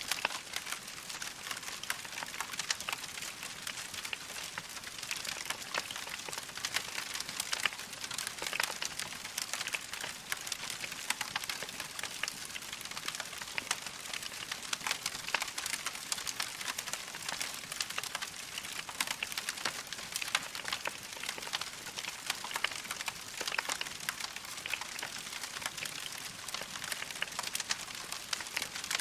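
Wood fire crackling in a fireplace: a dense, steady stream of small crackles and pops over a soft hiss.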